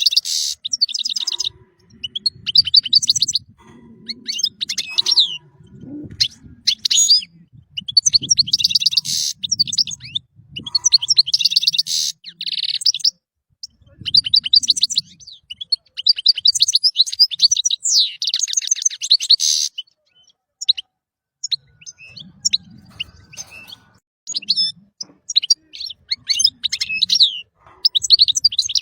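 European goldfinch singing: rapid tinkling twitters and buzzy trills in bursts of a second or two, with brief pauses between phrases.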